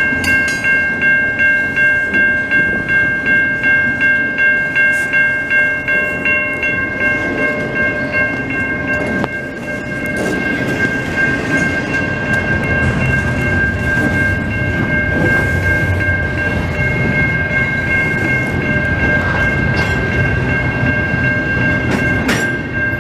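Level-crossing warning bell ringing steadily over a long freight train rolling through the crossing, its wheels clattering and rumbling over the rails. The rumble grows heavier and steadier about nine seconds in.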